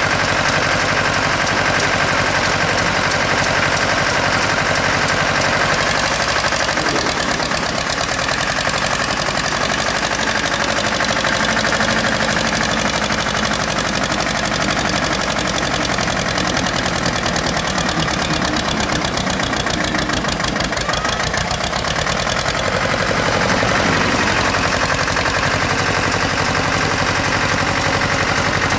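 Tractor engine running steadily with a dense, even firing beat. It revs up briefly a few seconds in and again near the end.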